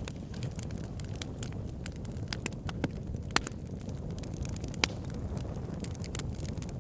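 Wood fire burning in a fireplace: a steady low rumble of flames with constant small crackles and a few louder pops, the sharpest about three and a half and five seconds in.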